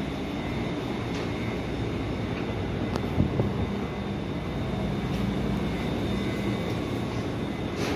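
Steady hum of a stationary Tokyo Metro 5000 series electric train car's onboard equipment, heard inside the car with its doors open. A short knock sounds about three seconds in.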